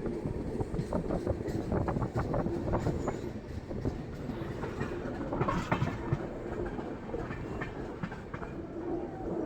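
Express passenger train running along the track: wheels clattering over rail joints in irregular clicks over a dense rumble, with a steady hum underneath.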